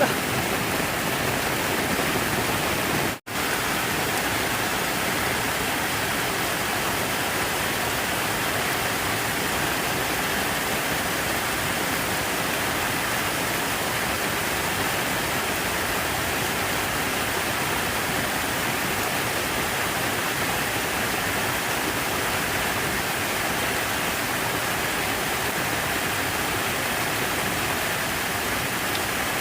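Steady rush of falling water, an even hiss with no changes. It cuts out for a split second about three seconds in.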